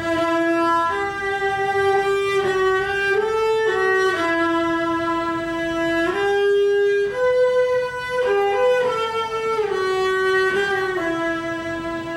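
Solo bowed string instrument playing a slow melody of long held notes, one line stepping up and down in pitch.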